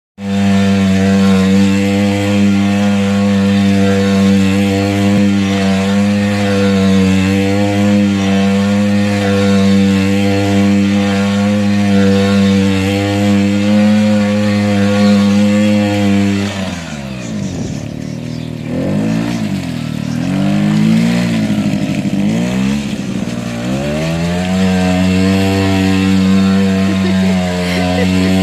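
Small kids' quad bike engine running at steady revs as it circles doing donuts. About two-thirds of the way through, the engine note dips and swings up and down several times before settling back to a steady note.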